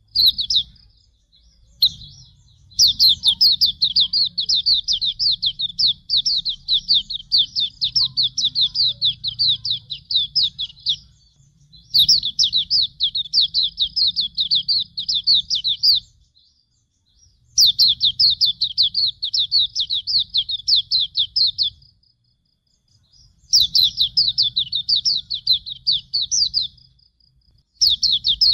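Hume's white-eye (pleci auriventer) singing long, fast phrases of rapid, repeated, down-slurred high chirps, with short pauses between phrases. A faint low hum comes and goes with each phrase.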